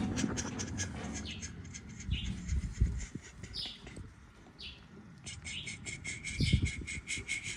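Birds chirping: a few short falling chirps spaced about a second apart, then a fast run of chirps over the last couple of seconds. A few low thumps are mixed in.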